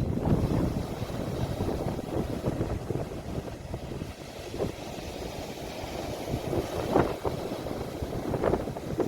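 Sea waves washing on the shore, recorded on a phone, with wind rumbling on the microphone; a few brief louder splashes come around seven seconds in and near the end.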